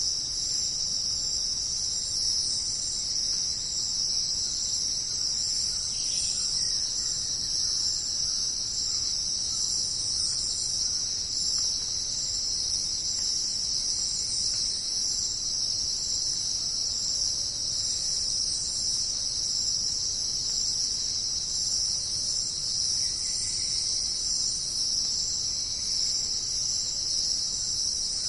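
Dense insect chorus in tropical rainforest, a continuous high-pitched shrill drone that holds steady without pause.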